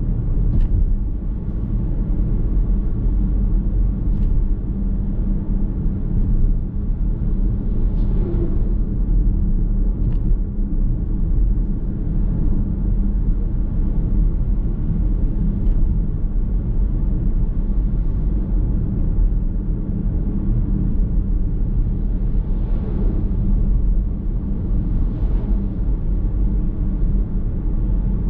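Steady road and tyre rumble of a car driving, heard from inside the cabin, with a few brief swelling whooshes about eight seconds in and twice more past the middle.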